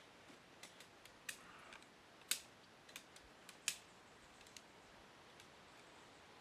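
Irregular sharp clicks and snaps of tent gear being handled and fitted together while a tent is pitched, with two louder snaps in the middle and only a few soft clicks near the end, over a faint quiet background.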